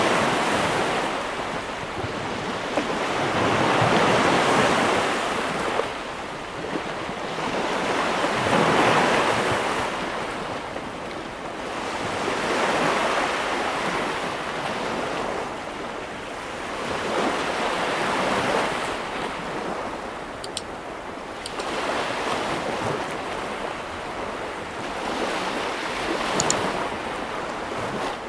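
Sea waves breaking and washing up the shore. The surf rises and falls in swells about every four to five seconds.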